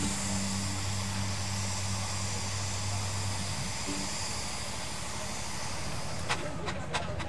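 Steam engine hissing steadily, with a low steady hum that stops about halfway through and a series of sharp clicks near the end.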